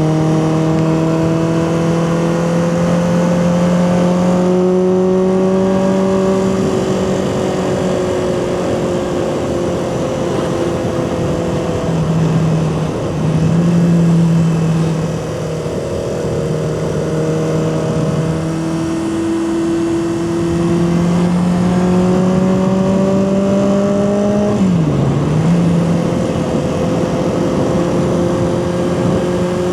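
Honda CB400/4 Super Sport's air-cooled inline-four engine running under way, its revs climbing and easing off several times as the bike is ridden. Near the end the pitch dips sharply and recovers at a quick gear change.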